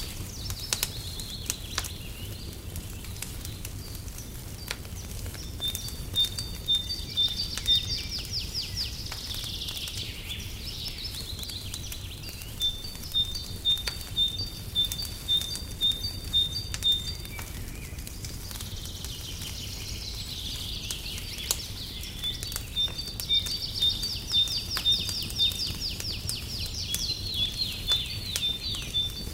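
Songbird singing long bouts of high, evenly spaced notes, about two a second, in the middle and latter part. Beneath it a fireplace crackles with scattered small pops over a steady low rumble.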